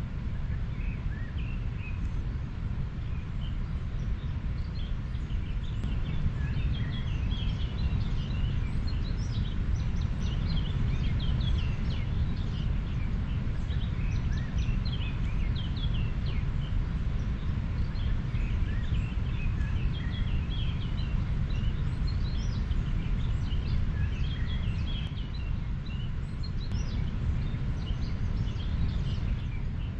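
River water running in a steady low rush, with many small birds chirping throughout in short high calls.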